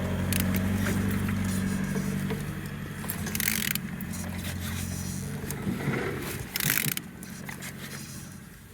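Opel/Vauxhall A20DTH diesel engine being turned over by hand, with mechanical ratcheting and turning noises. It turns freely with compression on all cylinders. A steady low hum fades about two and a half seconds in, and two short rushing bursts come at about three and a half and seven seconds.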